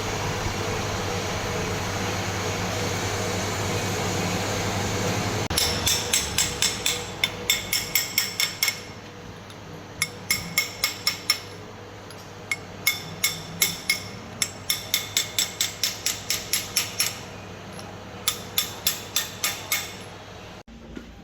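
Hammer striking metal: runs of sharp, ringing blows about three to four a second, with short pauses between runs. A steady machine hum runs for the first five seconds or so, before the hammering starts.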